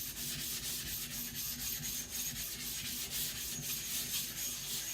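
Steel blade of a nakiri knife stroked quickly back and forth on a whetstone, a steady gritty scraping at about four or five strokes a second, as the edge is roughened to make it bite harder.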